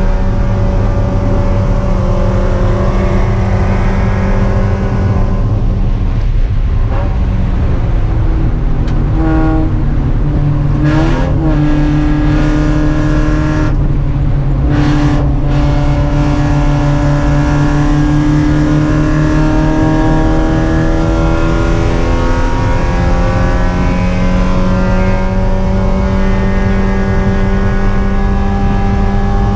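Mazda Miata race car's four-cylinder engine at full throttle, heard from inside the car: high revs, then the pitch drops with quick throttle blips as it brakes and downshifts about a third of the way in, then rises steadily as it accelerates back up through the revs.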